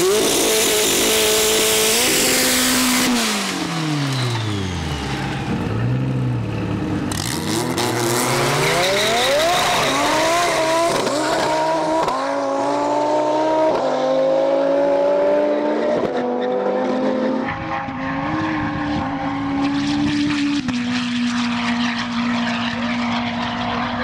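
Turbocharged Honda S2000 accelerating hard down a half-mile run from the launch. The revs climb and drop back at each of several upshifts, and the sound fades as the car draws away.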